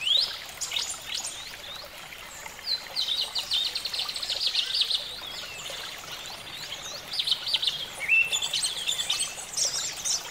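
Several birds singing and chirping together: short quick chirps, a fast rapid trill in the middle, and rising whistled notes, over a faint steady background hiss.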